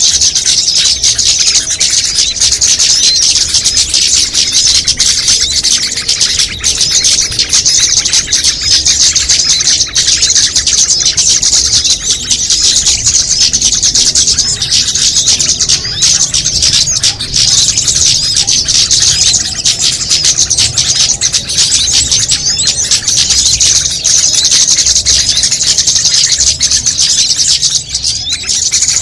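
A dense, unbroken chorus of high-pitched chirps and trills from many small songbirds, mixed together. It is a bird-lure call track meant to draw small birds in.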